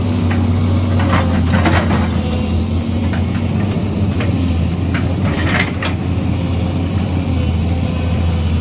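Excavator's diesel engine running steadily, with a few sharp clanks and scrapes from the work, clustered about a second in and again just past the middle.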